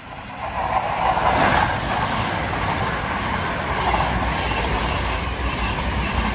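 A pair of coupled CrossCountry Voyager diesel trains passing through the station at speed: the rush of wheels on rail and underfloor engines swells over the first second, then stays loud and steady as the carriages go by.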